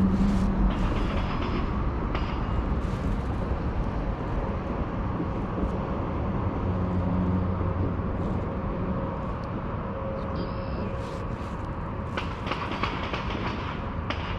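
Wind buffeting the microphone out on open water: a steady low rumble that slowly eases off, with a few light clicks near the end.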